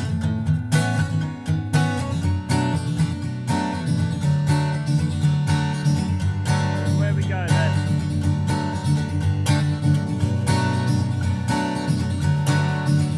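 Strummed acoustic guitar music with a steady rhythm.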